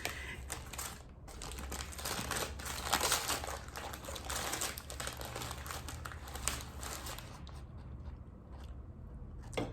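Packaging being crinkled and crumpled by hand, a dense crackle for several seconds that thins out to a few scattered clicks near the end.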